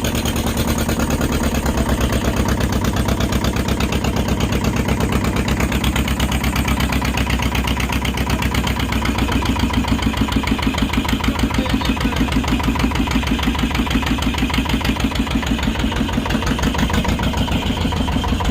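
Fishing boat's engine running steadily at low speed, with a rapid, even pulse of firing strokes.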